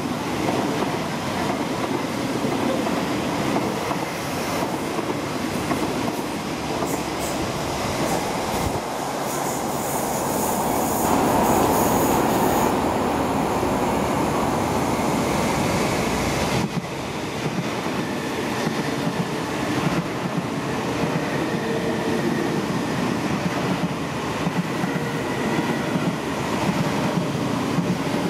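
MTR East Rail Line electric multiple-unit trains running along the tracks, with a steady loud rail noise throughout. It grows louder near the middle and changes abruptly about two-thirds of the way through.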